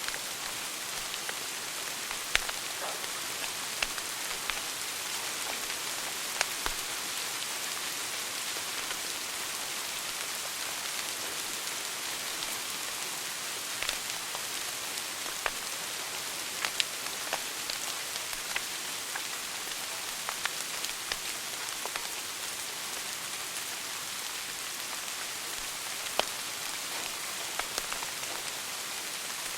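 Wood fire burning in a fireplace: a steady crackling hiss with many small snaps and occasional louder pops.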